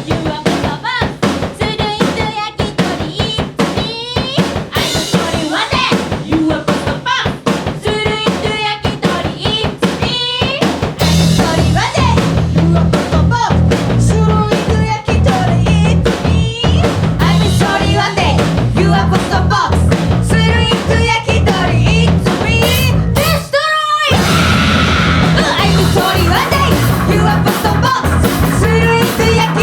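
Punk rock band playing: a busy drum kit with snare and bass drum at first, then bass and guitars coming in heavily about eleven seconds in. There is a short break a little over twenty seconds in before the band crashes back in.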